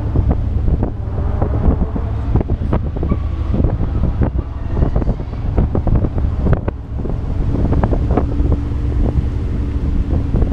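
Vehicle engine running at road speed, a steady low rumble, with heavy wind buffeting on the microphone.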